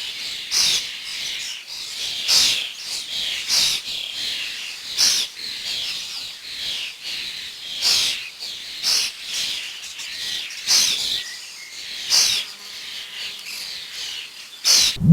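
Birds chirping: a dense, steady chatter of high calls with louder sharp chirps standing out about once a second.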